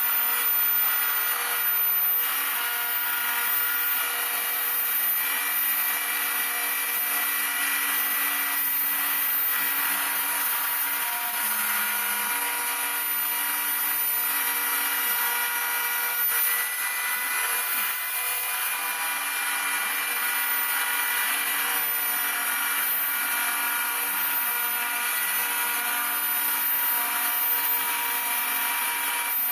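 Homemade CNC router running steadily while milling, its spindle giving a constant high whine with several steady tones over a hiss.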